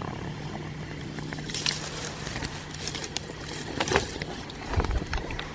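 Campfire just lit, crackling with scattered sharp pops, over a low steady hum, with a few dull thumps near the end.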